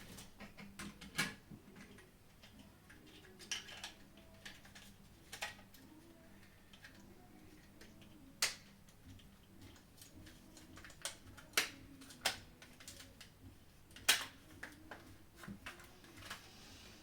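Irregular small clicks and taps of plastic controller parts being handled, about eight sharper clicks among lighter ticks.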